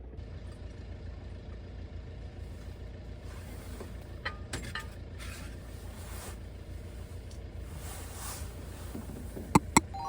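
Steady low rumble of a moving vehicle, with a few faint clicks and two sharp clicks close together near the end.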